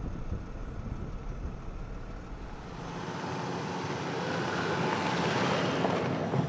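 Low rumbling noise. About three seconds in the rumble drops away and a rushing wind noise swells, loudest near the end.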